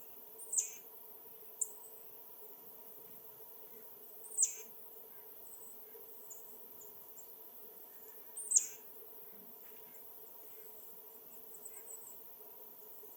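A songbird calling: three sharp calls that sweep quickly down in pitch, about four seconds apart, with a few faint high chips in between.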